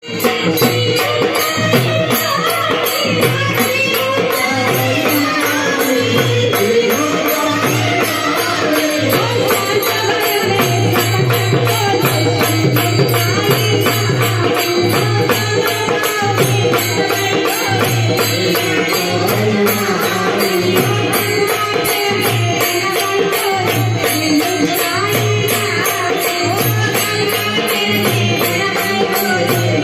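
Marathi devotional kirtan music: a singing voice over a fast, steady jingling beat of small hand cymbals and drum.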